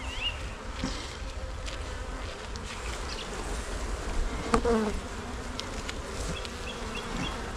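Honey bees buzzing around an open hive as its frames are inspected, a steady hum. A single sharp knock about halfway through.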